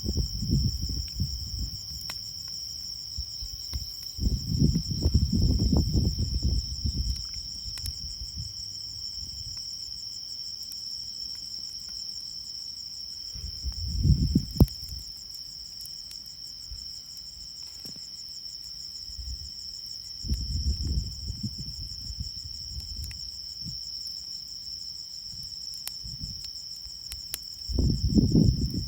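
Insects chirring in a steady, continuous high-pitched trill. Low rumbling gusts come and go several times underneath, with a few faint sharp clicks.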